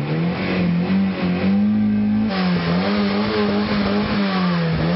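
Car engine revved again and again by pumping the gas pedal, its pitch rising and falling with each press. About two seconds in the sound cuts to a second car, a SEAT sedan, whose engine is also being revved in rises and dips.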